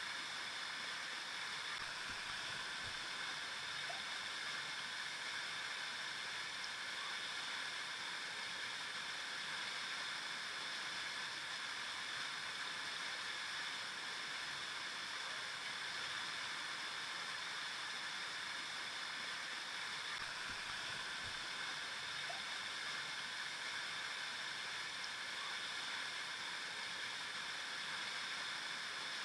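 River water flowing, a steady rushing and burbling that stays even throughout.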